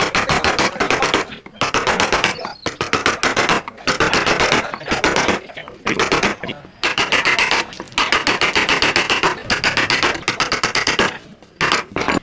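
Woodworking tool work on wood: rapid knocking and tapping, many strikes a second, in bursts of one to two seconds with short pauses between.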